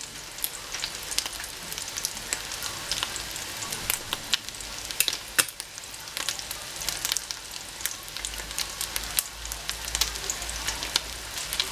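Rice-and-egg patties frying in shallow oil in a terracotta cazuela: a steady sizzle broken by frequent sharp crackles and pops.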